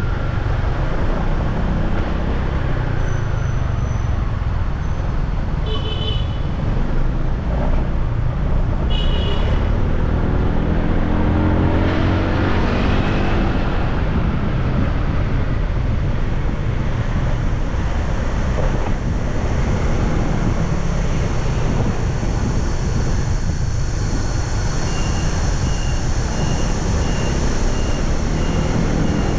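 Road traffic heard from a moving motorbike: a steady rumble of engines and tyres. Two short horn toots sound about six and nine seconds in, a vehicle's engine passes mid-way, and evenly spaced short beeps repeat near the end.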